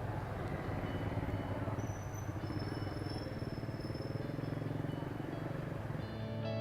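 A small scooter engine running steadily at an even speed.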